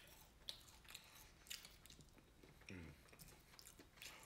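Faint mouth sounds of a person chewing fried catfish nuggets and fries, with a few soft crunches and clicks.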